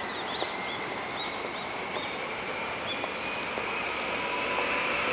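A Tokyu electric commuter train approaching in the distance: a faint high whine that slowly rises in pitch and grows louder. Small birds chirp several times in the first few seconds.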